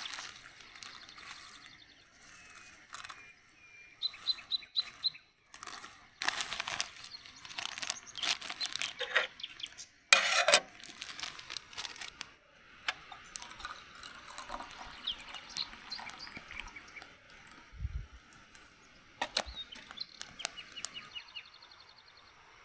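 Irregular rustling, clicks and knocks of things being handled, with a few short bird chirps and trills between them.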